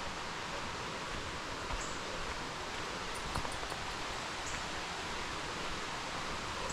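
Steady rushing noise of a nearby mountain stream, with a few faint high ticks about three seconds in.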